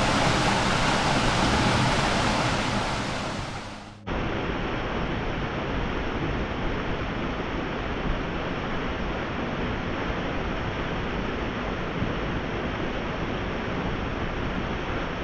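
Steady rush of water from a small waterfall on a mountain beck, loud at first and fading away about four seconds in, then cutting to a quieter, steady rush of falling water.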